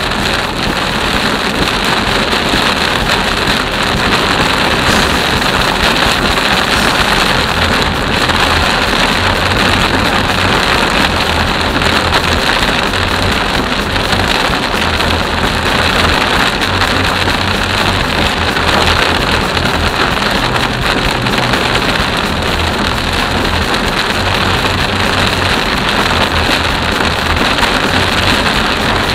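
Heavy rain pounding steadily on a car's windshield and roof, heard from inside the moving car, with low road rumble from the car underneath.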